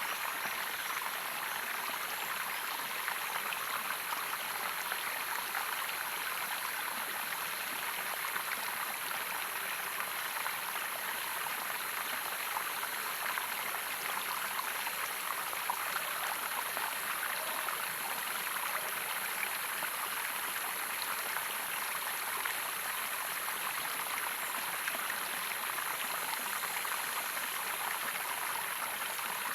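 Running water of a natural stream, splashing steadily and without a break.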